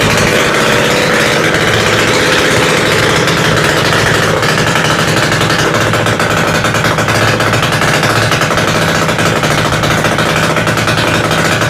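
Freshly revived engine, still not fully assembled, running steadily at idle with a fast, even beat.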